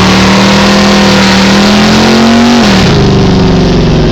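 Car engine running through open headers, very loud: held at raised revs, then dropping back to a lower idle about three seconds in.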